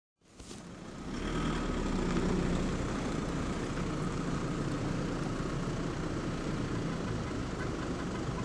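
Land Rover Discovery 3 4x4 engine idling steadily, fading in over the first second.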